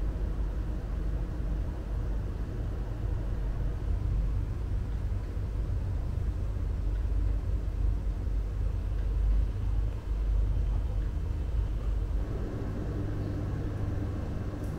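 Passenger train running: a steady low rumble, a little fuller from about twelve seconds in.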